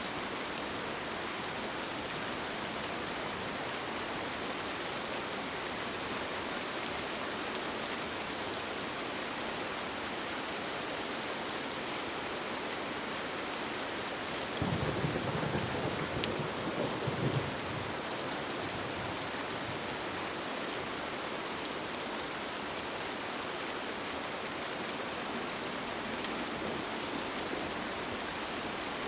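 Steady rain falling throughout, with a short low rumble of thunder lasting about three seconds near the middle.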